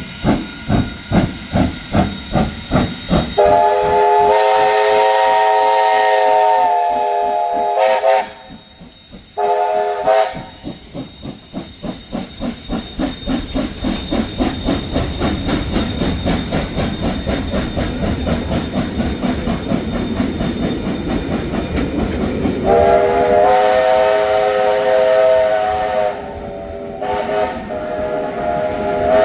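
JA-class steam locomotive pulling away, its exhaust beating about twice a second at first and then quickening as it gains speed. A chime whistle sounds twice, each time one long multi-note blast followed by a short one, the first near the start and the second near the end.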